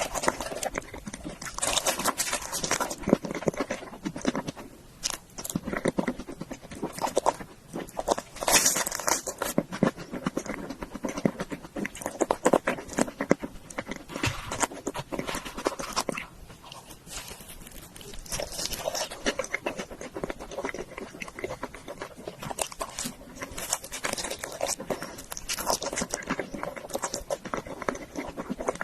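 Close-miked chewing of food: a continuous run of quick mouth clicks and smacks, easing off for a moment around the middle.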